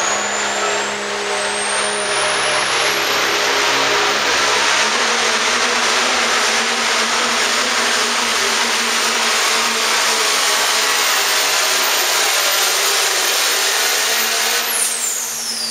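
Turbocharged pro stock diesel pickup truck pulling under full throttle, its engine and exhaust loud throughout. The turbo whistle rises over the first few seconds and holds high, then drops steeply near the end as the throttle is let off.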